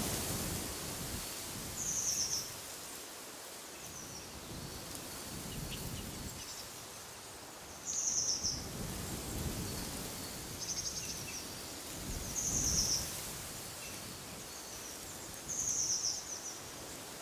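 A small bird giving short, high, buzzy calls, about six of them, over a steady rush of wind through trees. Low rumbling swells of wind come and go underneath.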